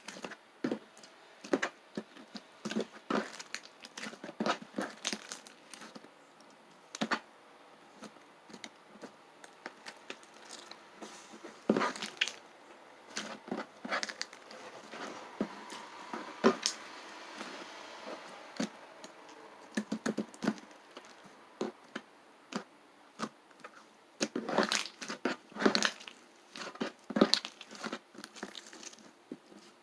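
Irregular crinkling and crunching: a scattered run of short clicks and crackles, denser in a few bursts.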